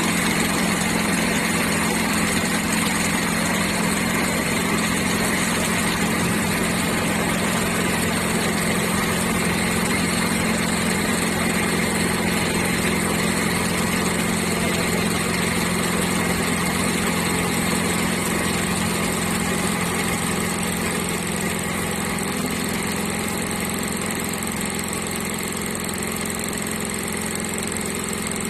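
Five-head bobbin winding machine running, a steady mechanical motor hum.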